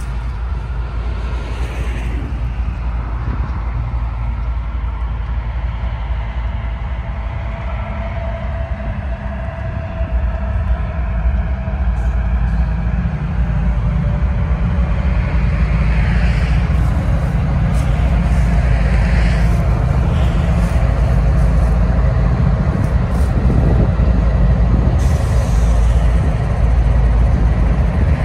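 Diesel locomotives of a freight train approaching and passing close by, a heavy engine rumble that grows louder about ten seconds in as the lead units draw level.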